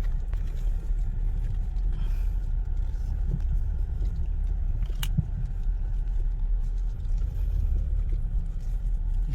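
Car driving: a steady low rumble of engine and road noise, with a single sharp click about five seconds in.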